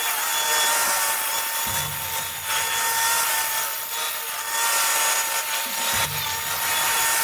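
A machine cutting wood: a steady high whine over a harsh grinding noise of wood being cut, with a deeper engine note joining in about two seconds in and again about six seconds in.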